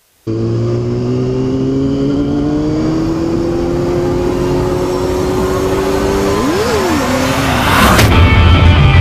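A motorcycle engine running under load, its pitch slowly climbing, then a rising whoosh sweeps up into a sharp hit about eight seconds in, and heavy rock music starts.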